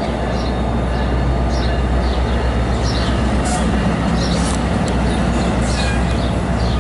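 NJ Transit multilevel commuter coaches rolling slowly past at close range: a steady low rumble with brief high-pitched wheel squeaks every second or so.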